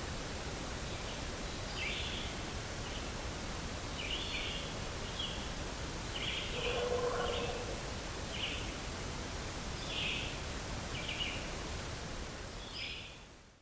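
Steady outdoor background noise with short high chirps every second or so, and one brief lower pitched call about seven seconds in. The sound fades out at the end.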